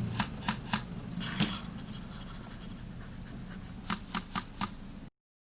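Airsoft guns firing single shots as sharp cracks: three within the first second, one at about a second and a half, and a quick string of four near four seconds. A vehicle engine's low running sound fades in the first second, and the sound cuts out abruptly just before the end.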